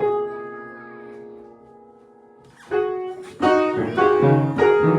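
Keyboard notes struck irregularly: a chord at the start that rings and fades, then a quick, uneven cluster of notes from a little before three seconds in.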